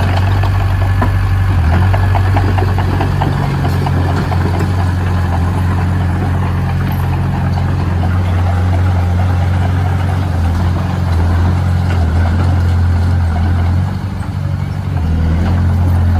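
Heavy construction machine's engine running steadily with a deep hum, dropping off briefly about fourteen seconds in before picking up again.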